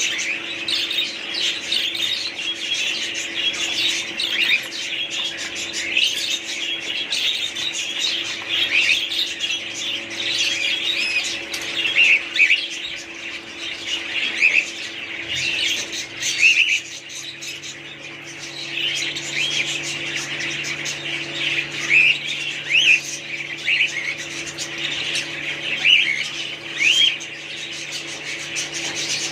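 Many small birds chirping and squawking together in a constant, overlapping chatter, over a steady low electrical hum. A second, lower hum joins about two-thirds of the way through.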